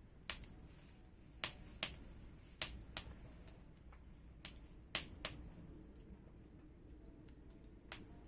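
Burning firewood crackling: irregular sharp pops and snaps, about ten of them, bunched in the first half and around five seconds in.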